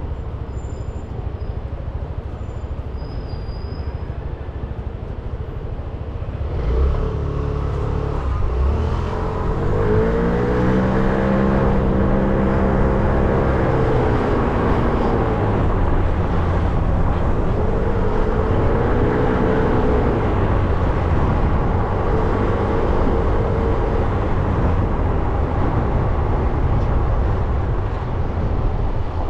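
Motorbike engine over a low steady rumble, then pulling away about seven seconds in: the engine note rises and falls three times as the bike accelerates through its gears.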